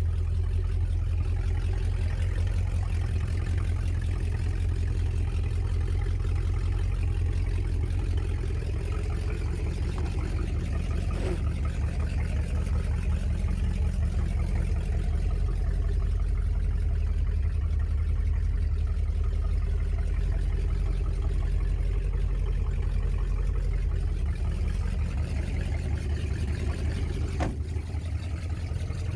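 A 1969 Chrysler Newport's 383 V8 idling steadily with an even low pulsing, with a couple of faint clicks.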